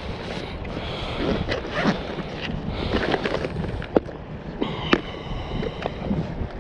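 Paddleboard on the water: rushing, splashing water with a series of sharp knocks and clatters, the loudest two about four and five seconds in.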